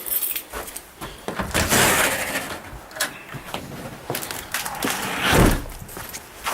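A door being opened and shut, with rustling and clicks, and a heavy thump about five and a half seconds in.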